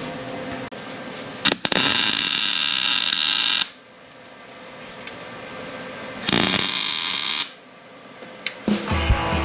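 Arc welder laying tack welds on steel: two bursts of steady crackling buzz, the first about two seconds long and the second about one second. Background music starts near the end.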